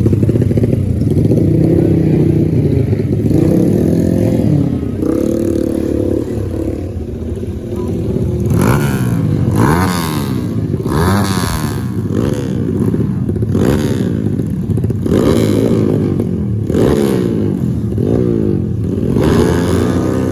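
Motorcycle engines running hard, their pitch rising and falling repeatedly as they rev through the gears. From about the middle on, the revs swing up and down about once a second.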